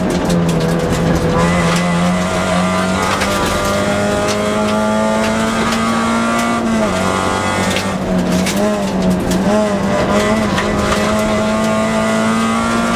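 Toyota Yaris rally car engine running hard at high revs, heard from inside the cabin. Its pitch holds, climbs slowly from about three seconds in, dips sharply about seven seconds in, then holds again. Sharp clicks and knocks come through over it.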